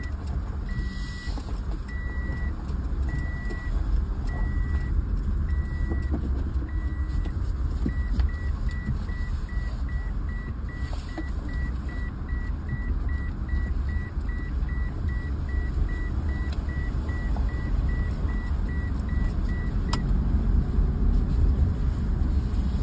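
Car driving slowly, heard from inside the cabin as a steady low rumble. A high electronic warning beep sounds about once a second, then switches to about three short beeps a second around eight seconds in, and stops about twenty seconds in.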